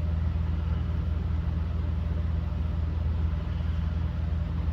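Steady low machine hum, even and unchanging.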